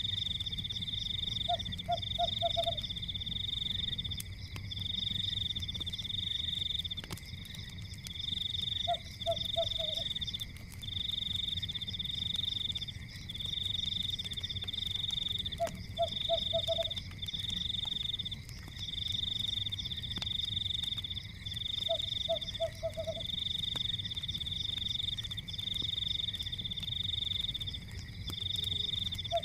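Night-time nature ambience: a loud high-pitched trilling chorus in pulses about a second long runs throughout. A frog's low croak of four or five quick pulses comes about every seven seconds, four times. Under it are a soft low rumble and a few faint crackles.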